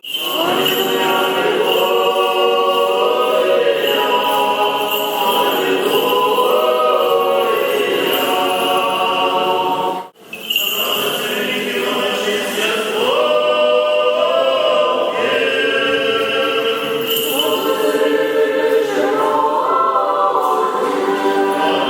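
Orthodox church choir singing unaccompanied liturgical chant, several voices together. The singing breaks off for a moment about ten seconds in, then resumes.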